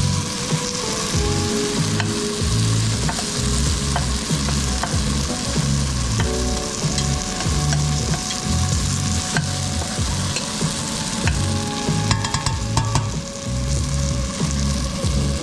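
Food sizzling in a frying pan while being stirred, the utensil knocking and scraping against the pan, with a short run of quick clicks near the end.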